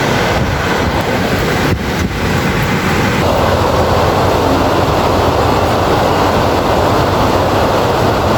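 Heavy rain falling in a loud, steady hiss with a deep rumble underneath; the downpour thickens about three seconds in and holds.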